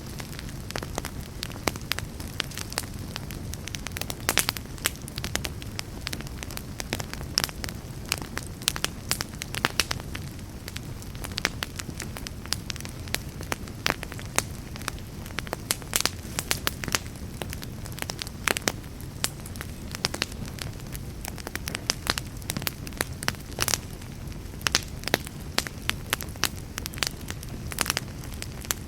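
Fireplace fire crackling, with frequent sharp pops and snaps over a steady low rumble of flames.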